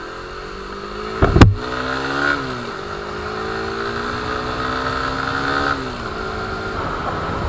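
A Suzuki Raider 150 Fi's single-cylinder four-stroke engine accelerates hard through the gears. The revs climb, drop at an upshift about two and a half seconds in, climb again, and drop at another shift about six seconds in. A sharp thump about a second and a half in is the loudest sound.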